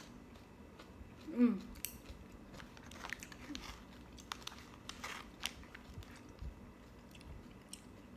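Close-up chewing and biting of a mouthful of food, with scattered small clicks and smacks. A short voiced sound from the eater's throat comes about a second and a half in.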